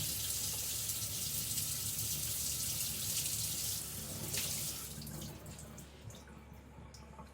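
Water running from a tap, rinsing off during whetstone sharpening; it stops about four and a half seconds in, followed by a few light clicks.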